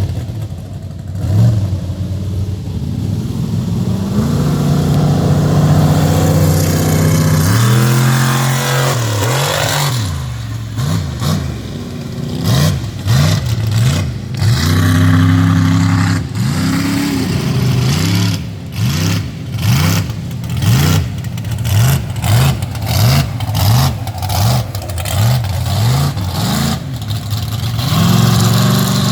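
Mega truck's big engine revving: held at high revs for a few seconds, then a long run of quick throttle blips, a little more than one a second, each rising and falling in pitch.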